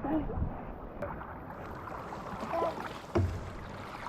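Canoe paddling: water swishing and dripping around the paddle and hull, with a sharp knock about three seconds in, like the paddle striking the canoe's side.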